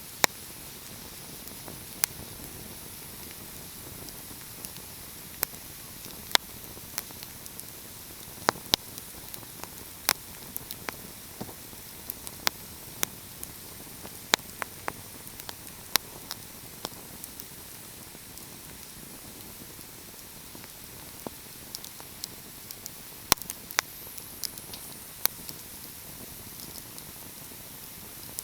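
Wood fire in a fireplace crackling: sharp, irregular pops and snaps over a steady hiss. There are a few seconds with hardly any pops a little past the middle.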